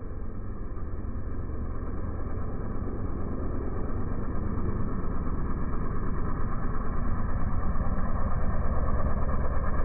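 Vehicle engine running at low speed, gradually getting louder, with a pulsing throb near the end.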